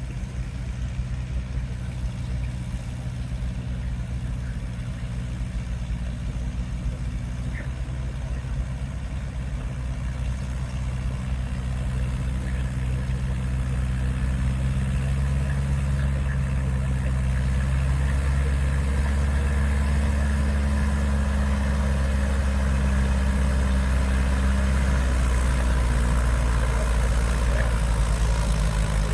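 Antique Ford farm tractor's engine working steadily under load as it drags a transfer pulling sled down the track, a low drone that grows louder about halfway through.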